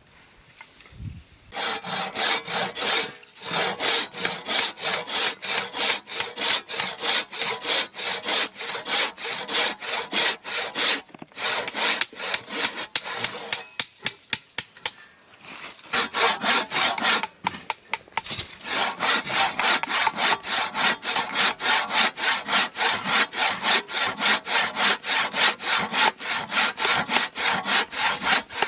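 Handsaw cutting through wood with quick, even back-and-forth strokes, about three a second, pausing briefly a few times.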